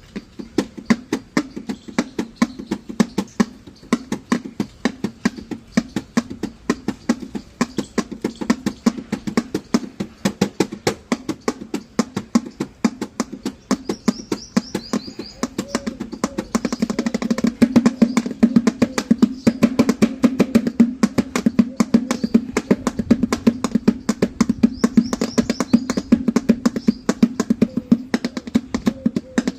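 Desi dhol drumming in a fast, steady rhythm of dense strokes, growing louder a little past halfway.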